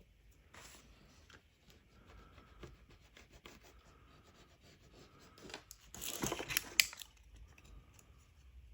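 Razor blade scraping leftover polarizer adhesive off the glass of an LCD panel: a series of short scratchy strokes, loudest in a cluster about six to seven seconds in.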